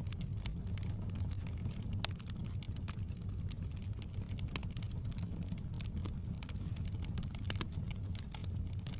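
Wood fire burning: a steady low rumble of the flames with scattered sharp crackles and pops of the burning logs, one louder pop about two seconds in.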